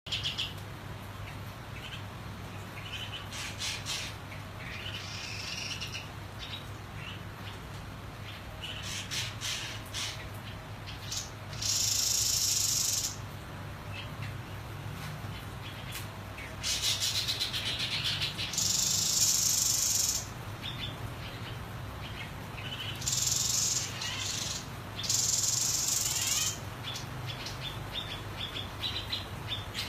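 White-breasted babbler (tepus dada-putih) calling in short chirps and whistles. Several times there are loud bursts of harsh, hissing high-pitched sound lasting one to three seconds each, over a steady low hum.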